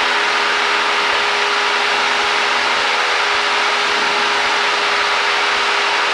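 Cessna 172 cabin in flight: steady drone of the piston engine and propeller with rushing air noise, a constant hum underneath.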